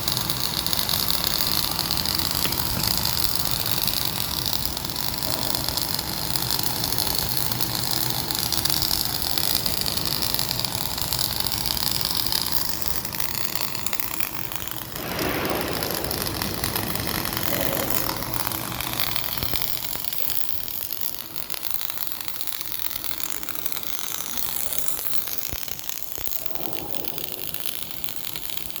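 Flux-cored arc welding: the arc crackling and sizzling continuously as a bead is laid.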